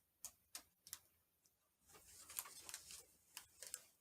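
Faint, light clicks of plastic parts being handled, with a short stretch of soft rustling, as a robot vacuum's small side brushes are tried against the underside of the robot.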